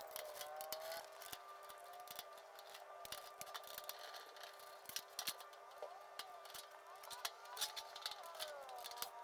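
Scattered light clicks and snips, as of small parts and tools being handled during work on a DirecTV D12-500 receiver, over a faint steady hum.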